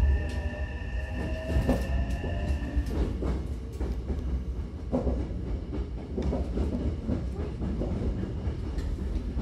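Inside a Hankyu 9000-series electric train car pulling away and gathering speed: a steady low rumble with wheels clattering over rail joints and points in repeated sharp knocks. A high steady whine stops about three seconds in.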